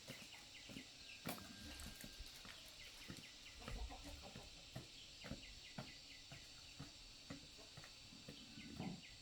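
Faint, irregular clicks and knocks scattered over a quiet background hiss, with a faint steady high-pitched tone.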